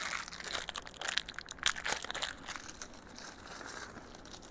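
Plastic packaging crinkling and rustling as it is handled, with many small crackles and clicks that are busiest in the first couple of seconds and die down toward the end.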